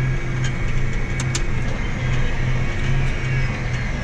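A vehicle engine running steadily, with a low hum that pulses evenly. Two sharp clicks come about a second in.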